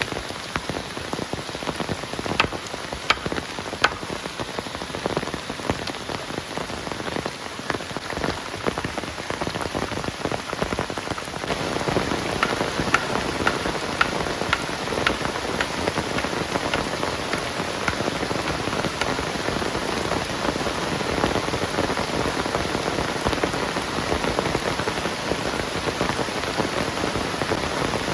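Heavy rain falling steadily, with individual drops ticking sharply close by; the downpour grows louder a little before halfway through.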